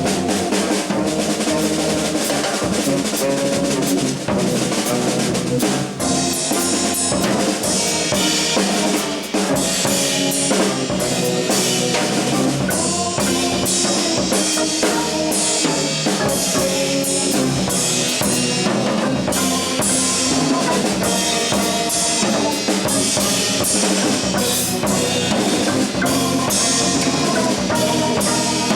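Live jazz trio playing, with the drum kit prominent: snare, bass drum and cymbal strikes under sustained notes from a pitched instrument.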